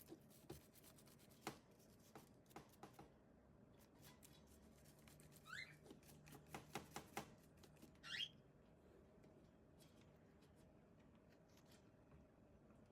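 Faint clicks and taps of hands handling the plastic parts of a hair dryer, with two short rising squeaks, about five and eight seconds in.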